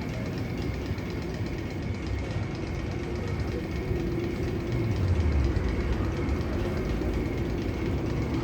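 Steady low rumble and rattle of a train running on track, with a faint high whine throughout; the rumble swells a little about halfway through.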